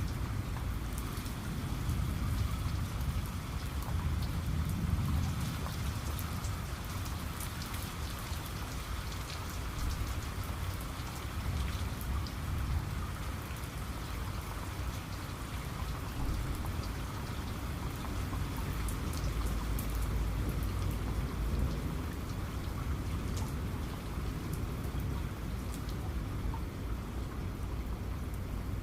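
Steady heavy rain, with many individual drops ticking sharply on a surface over a low rumble that swells and fades a few times.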